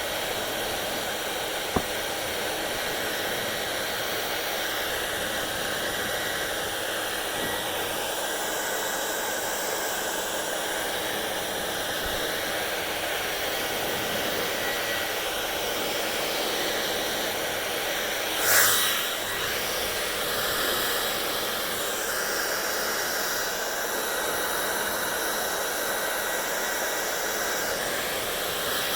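Hair dryer blowing steadily, with a sharp click about two seconds in and a brief louder swell a little past the middle.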